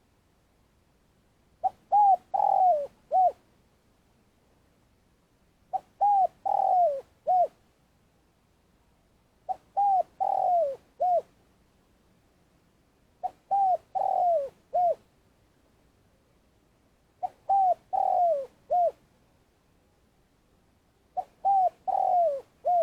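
Spotted dove cooing its song: a four-note phrase repeated six times, about every four seconds. In each phrase the third coo is longer and falls in pitch.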